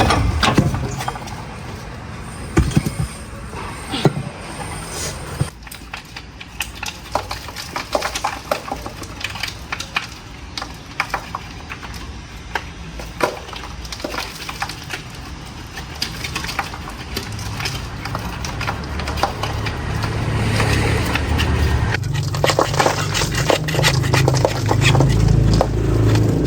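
Workshop work on car parts: many short, irregular clicks and knocks of metal tools and parts being handled. A low steady hum comes in past the middle and grows louder near the end.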